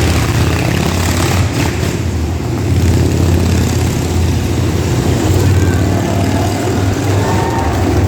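Motorcycle engine running steadily and loud inside a wall-of-death drum, its level swelling a little about three seconds in.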